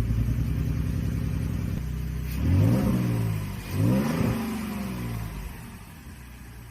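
Car engine idling just after a shorted cylinder-1 fuel injector and the ignition coils were replaced, revved twice, rising and falling in pitch each time, then settling back to idle.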